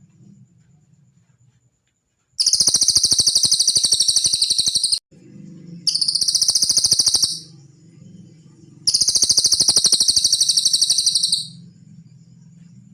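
Cililin bird song: three long, very fast high-pitched trills separated by short pauses, the first and last lasting about two and a half seconds.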